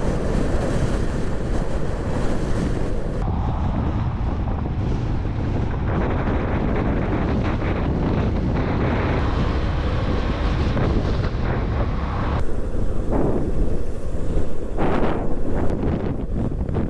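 Gale-force wind buffeting the microphone of a rider on a motorcycle, a heavy continuous rumble with stronger gusts near the end.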